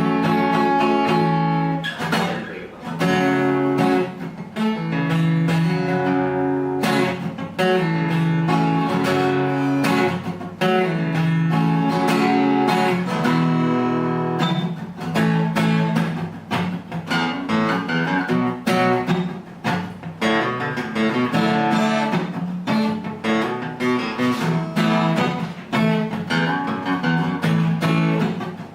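Ruison RD-45N acoustic guitar with a spruce top and rosewood back and sides, played solo-style with single plucked melody notes and occasional strums, ringing clear.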